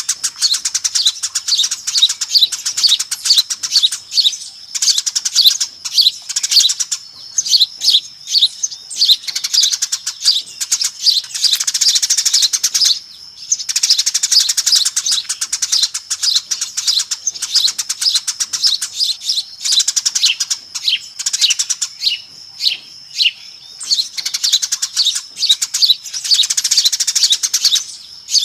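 A flock of Eurasian tree sparrows chirping fast and noisily, a dense, continuous chatter with short lulls about halfway through and again later on. This is a sparrow lure call, played to draw sparrows in.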